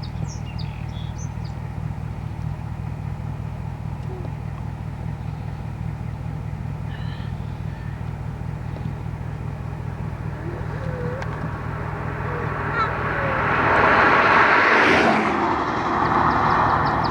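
A vehicle engine idling steadily, with faint bird chirps above it. About thirteen seconds in, a louder rushing noise swells and then eases off.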